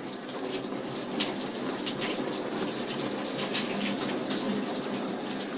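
Someone chewing pretzel-filled white chocolate M&M's Snowballs: irregular crisp crunches over a steady hiss.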